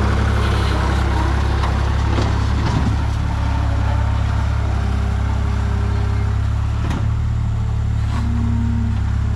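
Skid steer engine running steadily under work, with a few brief knocks.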